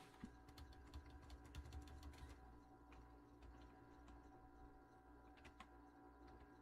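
Faint typing on a computer keyboard: a quick run of keystrokes over the first two seconds or so, then a few scattered keystrokes, over a steady low hum.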